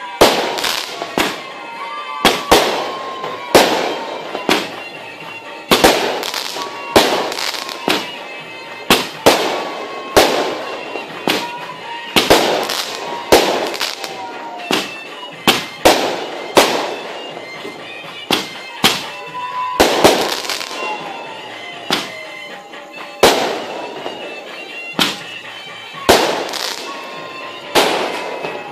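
Aerial fireworks going off in a rapid string of sharp bangs, roughly one or two a second, each with a short echoing tail. Thin falling whistling tones sound between the bangs.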